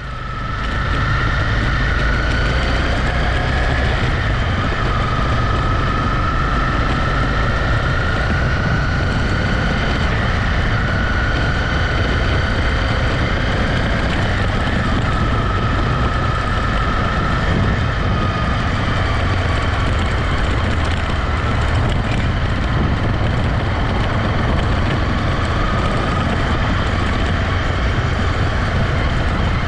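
Honda CB250R's single-cylinder engine running steadily at cruising speed, with faint whining tones that drift slowly in pitch, under heavy, steady wind rumble on the microphone. The sound fades in over the first second.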